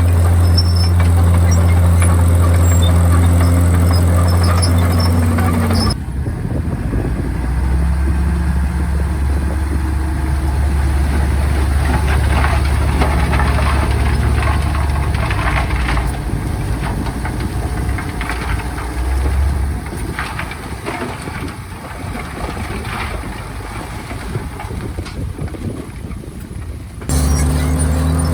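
Bulldozer's diesel engine running steadily under work, with squeals and clanks from the running gear. The sound changes abruptly about six seconds in and again near the end. The middle stretch is quieter, with the clanks and squeals most audible.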